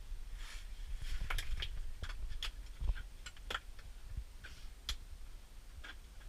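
Scattered sharp clicks and light taps at an irregular pace, about a dozen, over a low rumble.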